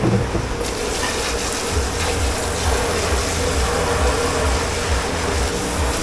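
Steady gush of running water over dishes, with a steady machine hum underneath.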